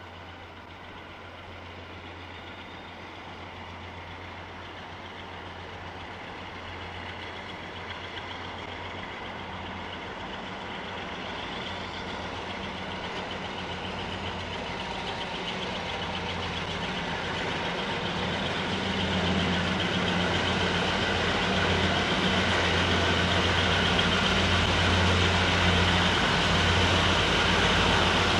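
Diesel locomotive engine running with a steady low hum, growing steadily louder. This is most likely the Class 42 Warship diesel-hydraulic D832 Onslaught.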